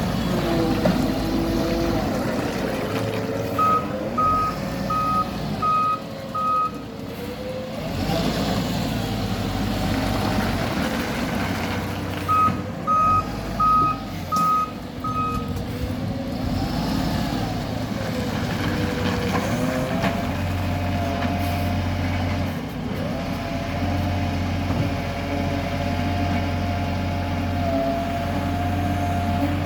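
Garbage truck engine running, its revs rising and falling, while the truck's reversing alarm sounds in two runs of five beeps, a few seconds in and again about twelve seconds in. The engine settles to a steadier note in the last third.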